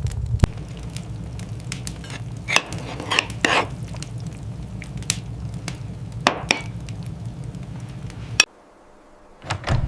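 Dishes and cutlery clinking and scraping over a steady low rumble, with scattered sharp clicks. The sound cuts out abruptly about eight and a half seconds in and returns just before the end.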